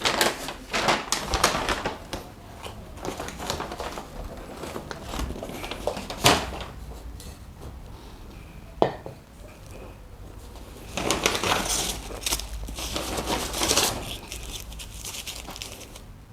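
Paper food wrapping being crinkled and torn open in bursts of rustling, with a sharp knock about six seconds in and another near nine seconds.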